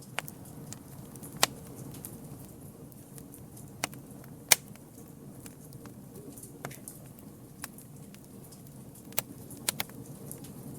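Campfire burning: a steady low rumble of flames with sharp, irregular crackles and pops from the wood, the loudest about halfway through.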